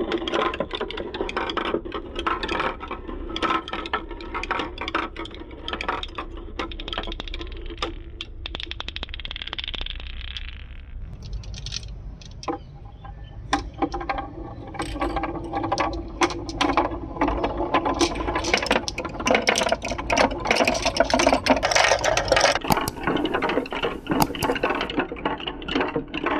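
Marbles rolling and clattering down a marble run: rapid irregular clicks and rattles as they hit the track and each other. A smoother rolling hiss comes through a stretch of track partway through, and after a short lull the clatter gets busier and louder.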